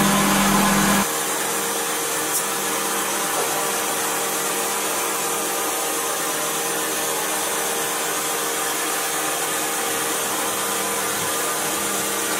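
Subaru Baja's flat-four engine running at idle under the open hood with the A/C system working, a steady mechanical noise. About a second in, a louder hum cuts off abruptly, leaving the even running noise.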